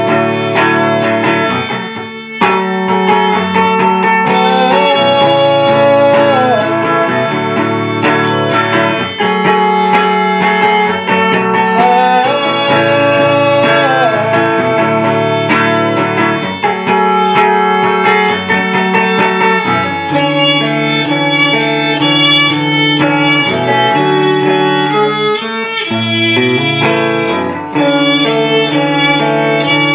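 Live band playing an instrumental passage between sung lines: guitar and bass with a lead melody that slides up and down in pitch. The lower parts change pattern about twenty seconds in.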